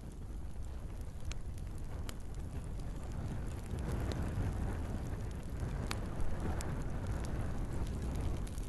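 Wood fire burning in a fireplace: a steady low rumble of the flames with scattered sharp crackles and pops from the burning logs, the flame noise swelling in the middle.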